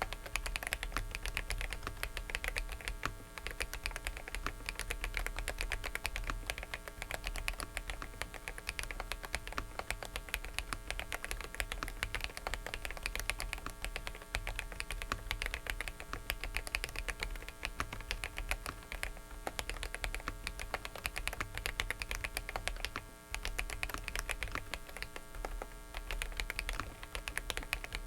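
Fast typing on a Dareu mechanical keyboard: a dense run of key clicks with a brief pause about two-thirds of the way through. Under it runs a steady electrical buzz from a faulty microphone.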